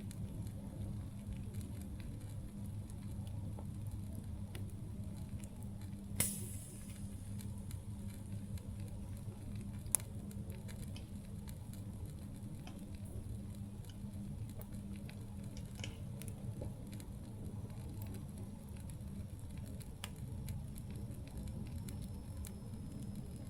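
Wood campfire burning: a steady low rumble of flame with scattered small crackles. A sharp, louder pop with a brief hiss comes about six seconds in, and another sharp crack about ten seconds in.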